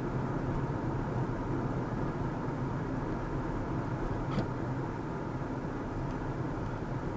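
Steady tyre and engine noise of a car driving along the road, with a short sharp click about four seconds in.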